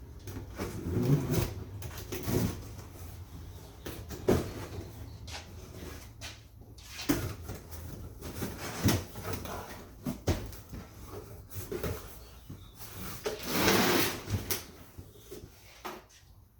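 Irregular knocks, clicks and scraping of objects being handled and set down, with a longer scrape or rustle about fourteen seconds in. A faint steady low hum runs underneath.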